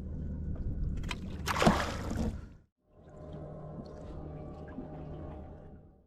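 Water sloshing against a boat, with a brief splash about a second and a half in over a steady low background. The sound cuts out suddenly for a moment near three seconds in, then the same steady background returns.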